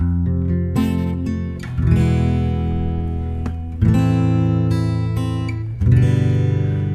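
Acoustic guitar strummed as a song intro, with a new chord struck about every two seconds and left ringing.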